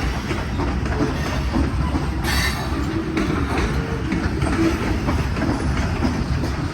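A BNSF manifest freight train's cars rolling past: a steady low rumble with irregular wheel clicks over the rail joints, and a brief brighter screech about two seconds in.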